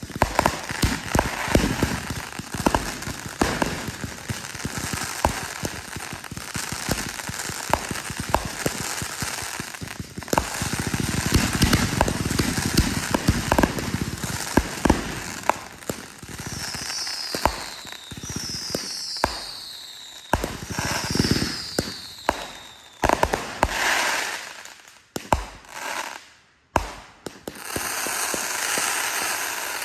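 Fireworks going off in a dense, rapid barrage of bangs and crackling. Partway through, three short whistles fall in pitch one after another, and near the end a sustained hissing crackle sounds.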